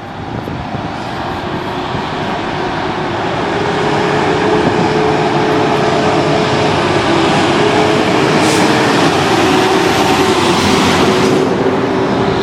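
Fire apparatus (engine and ladder truck) moving close by, heavy engines droning loudly, building over the first few seconds and then holding steady.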